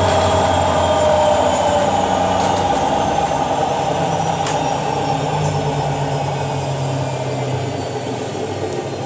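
Washing machine drum and motor at the end of a spin cycle, running down: a steady whine that slowly falls in pitch and fades as the drum decelerates, with a couple of light knocks from the load.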